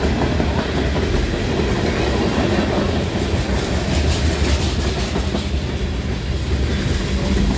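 Freight train's covered hopper cars rolling past close by: a steady rumble of steel wheels on the rails, with a few clacks as the wheels cross rail joints about halfway through.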